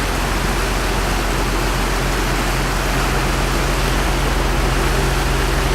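Tour boat's engine running steadily with a low hum, under a constant rush of wind and water.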